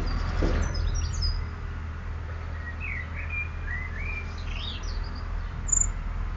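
Small songbirds calling: a few high chirps in the first second, then a short warbling phrase of quick rising and falling notes and one sharp high note near the end, over a steady low background rumble.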